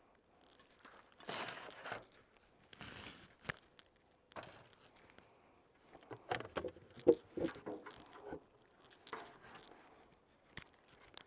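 Handling noises from work at beehives: rustling and crinkling with scattered light clicks and knocks, the sharpest cluster about two-thirds of the way through, as pollen patties are set in.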